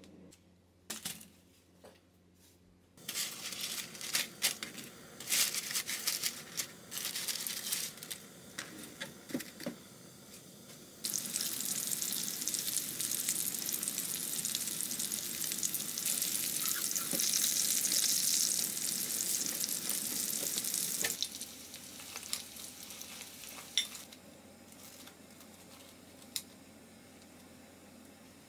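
Food frying in a hot pan: scattered crackles and clicks, then a sudden loud, steady sizzle about eleven seconds in that lasts about ten seconds and drops back to faint crackling.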